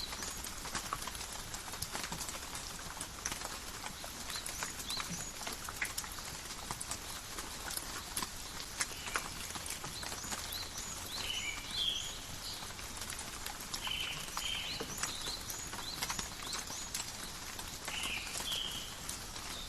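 Steady light rain falling in a forest, with many separate drops ticking on leaves over an even hiss. Short chirps sound several times, mostly in the second half.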